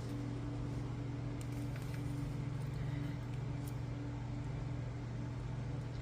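Steady low background hum with an even pitch, and a few faint ticks over it.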